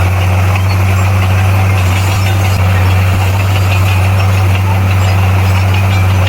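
Bulldozer's diesel engine running at a steady speed, a loud, even low drone with no change in pitch.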